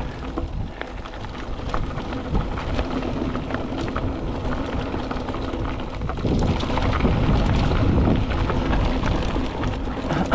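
Mountain bike riding fast down dirt singletrack: wind buffeting the microphone over tyres rolling on dirt, with many small rattles and clicks. It grows louder from about six seconds in.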